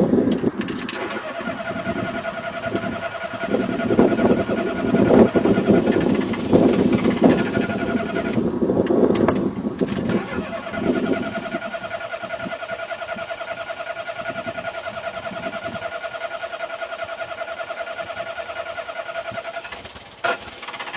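A car's starter cranking the engine, which does not catch: the car won't start. The cranking is loud and rough for the first half, then goes on more quietly and evenly. A steady high electronic warning tone sounds through most of it, dropping out briefly near the middle.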